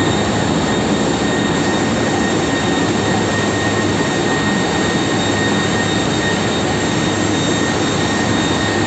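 Ship's engine room machinery running steadily and loud: a dense mechanical roar with a constant high whine over it.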